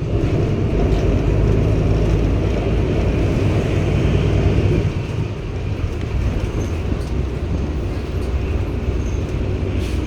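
Cummins ISB six-cylinder diesel of a 2016 Daewoo NEW BS090 city bus running under way, heard inside the cabin as a steady low hum. About five seconds in, the engine note drops as the load eases off.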